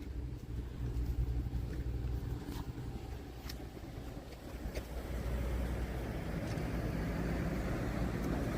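A car on the street, its engine rumble and tyre noise growing louder over the second half as it approaches.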